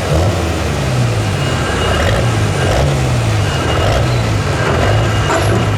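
Diesel pulling truck's engine running steadily, its pitch wavering up and down without a sustained climb.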